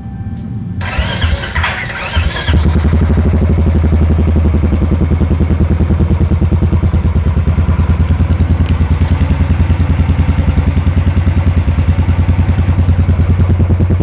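Royal Enfield Classic 350 BS6's single-cylinder engine being cranked and catching about two and a half seconds in, then idling with an even, steady exhaust thump.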